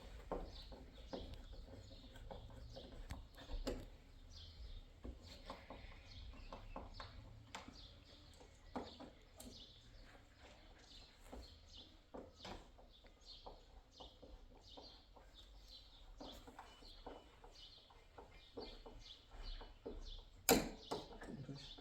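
Small birds chirping steadily, with scattered clicks and knocks of handiwork. One sharper, louder knock comes near the end.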